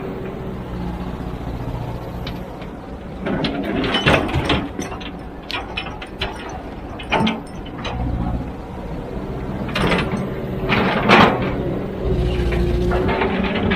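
Kobelco SK200-10 excavator's diesel engine running steadily, its low drone easing off after a couple of seconds and rising again near the end. Bursts of clanking and scraping come about three to five seconds in, again around seven seconds, and loudest around ten to eleven seconds.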